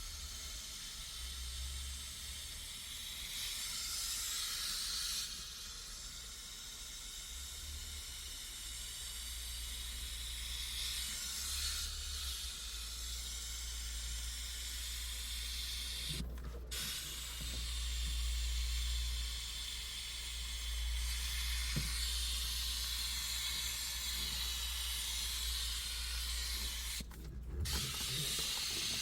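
A pressurised cleaning jet hissing steadily, cutting out briefly twice, about halfway through and near the end, over a steady low hum.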